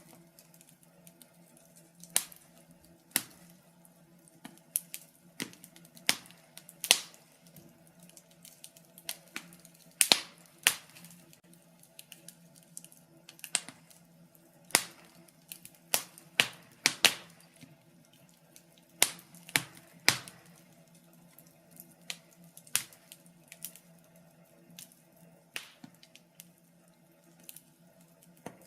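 Wood fire burning in a fireplace, crackling with irregular sharp pops and snaps over a faint steady hum.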